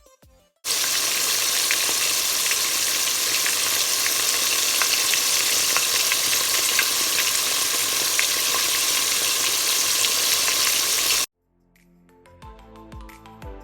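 Flour-coated chicken strips frying in hot oil: a steady sizzle with scattered crackles, starting abruptly about a second in and cutting off suddenly near the end.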